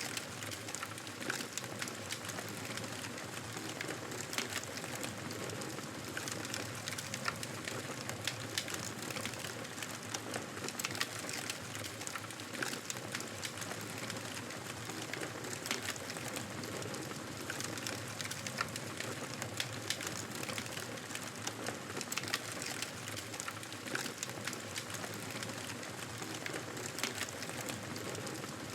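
Fire burning in a fireplace: a steady hiss of flames with frequent sharp crackles and pops at irregular intervals.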